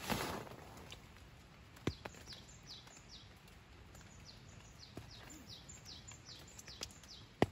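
Songbird chirping: two runs of short, high notes that fall in pitch, about three a second, with a pause between them. A few single faint taps sound now and then.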